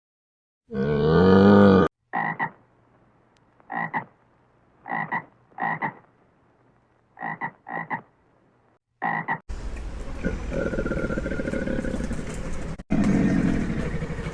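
A frog croaking: about nine short, separate croaks at uneven spacing, some in quick pairs. It is preceded by a brief loud pitched animal call near the start and followed, from about two-thirds of the way in, by a continuous noisy sound of another kind.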